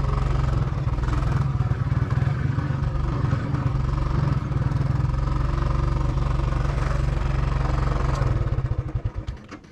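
Motorcycle engine running steadily with a rapid low pulsing, fading out near the end.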